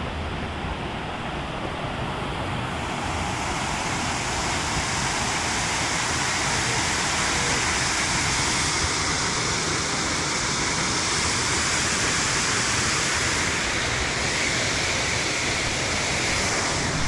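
A large waterfall's steady rushing noise, growing louder and brighter about three seconds in, then holding steady.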